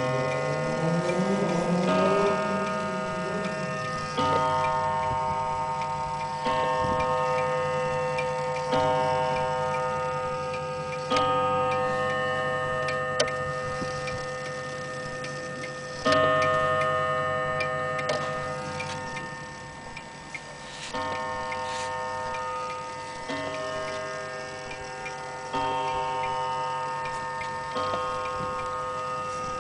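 Antique German HAC strike wall clock striking over and over, a blow about every two seconds or so, each one ringing on and fading, with the movement ticking underneath.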